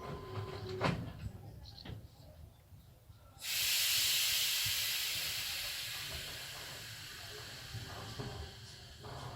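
Loud hiss of air venting from a passenger train's pneumatic system. It starts suddenly about a third of the way in and fades slowly over several seconds, after a few light clicks and knocks.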